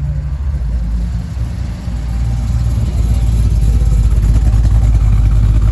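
Muscle car engine running close by, a deep low rumble that gets louder from about two to three seconds in.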